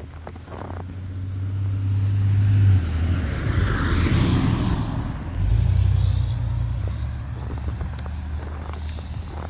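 A car driving past, growing louder to a peak about three seconds in, then fading away over the next few seconds.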